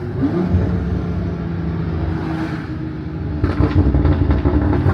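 BMW M340i's turbocharged inline-six running while driving, a steady low drone with road noise, growing louder and rougher about three and a half seconds in.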